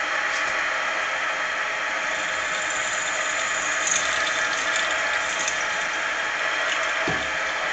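Machine tool running steadily as a number 32 drill bit cuts through a brass bushing in a 3D-printed knob, drilling the set-screw hole to be tapped 8-32. A short low knock comes near the end.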